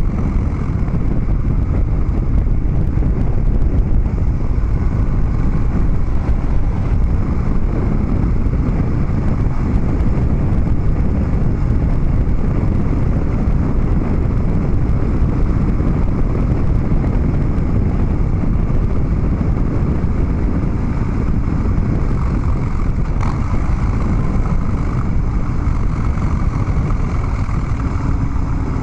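Harley-Davidson Dyna Street Bob's V-twin engine running through Vance & Hines Big Radius 2-into-2 exhaust pipes while the motorcycle is ridden, a loud, steady low rumble.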